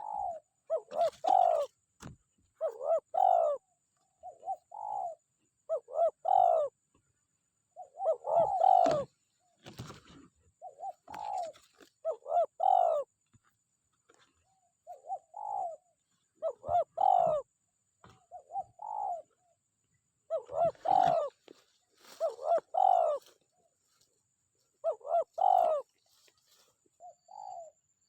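Spotted dove (tekukur) cooing over and over in short phrases of two or three coos, a phrase every two seconds or so, as a decoy dove calls to draw in a wild male. A few faint knocks come between phrases.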